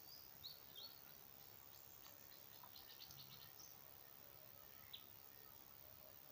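Faint bird chirps: a few short high calls in the first second, a quick run of chirps about three seconds in, and a single chirp near five seconds, over a low steady hiss.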